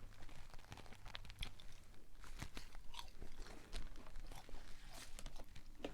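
A person chewing a mouthful of crispy fried chicken sandwich, a Checkers Mother Cruncher: faint, irregular crunches.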